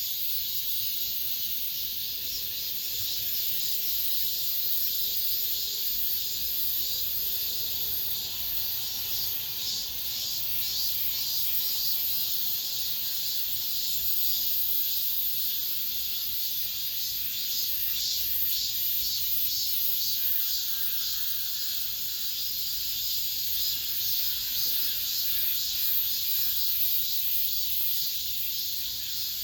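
Cicadas singing: a continuous, high-pitched buzzing drone that pulses faintly, with no breaks.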